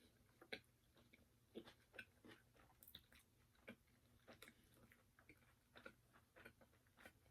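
A person chewing crispy fried chicken close to the microphone: faint, irregular crunches and wet mouth clicks.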